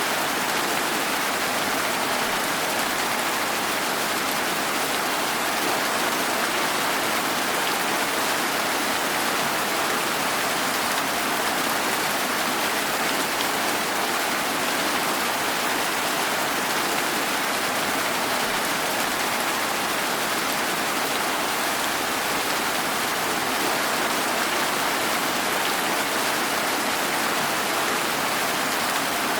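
Steady rain falling without a break, an even hiss with no separate drops, thunder or other events standing out.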